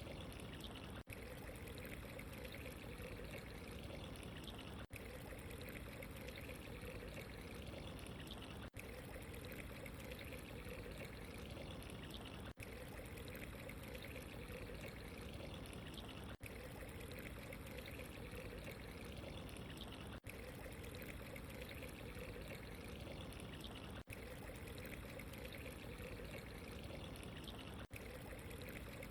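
Steady running water, a trickling, pouring flow, broken by a momentary dropout about every four seconds, typical of the seam in a looped recording.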